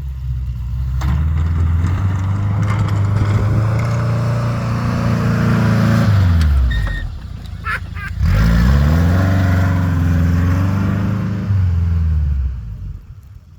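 Suzuki Samurai plow truck's engine revving up and holding steady, easing off about six seconds in, then revving up again and easing off near the end. In the short lull between the two, a few clicks and a brief high-pitched tone are heard.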